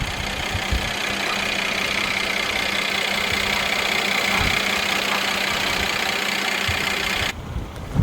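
The 2013 Mercedes-Benz E300 4Matic's 3.5-litre M276 V6 engine idling steadily, with a low hum under an even rush of noise. The sound stops abruptly near the end.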